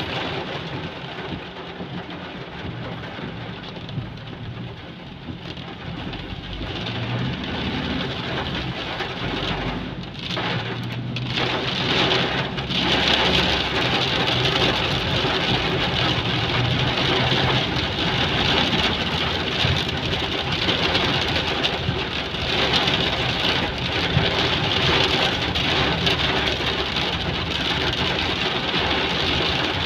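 Heavy rain pouring down steadily, growing louder about eleven seconds in.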